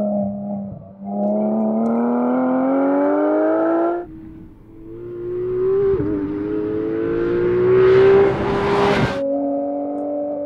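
2018 Porsche 911 GT3's four-litre naturally aspirated flat-six engine accelerating hard, its pitch climbing steadily in two long pulls. The second pull grows louder and harsher to a peak near the end, then cuts off abruptly, and the engine holds a steady lower note.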